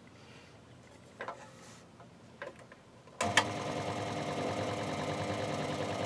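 Workzone scroll saw switched on about three seconds in, after a couple of faint clicks; its motor and reciprocating blade then run steadily, the saw working on first power-up.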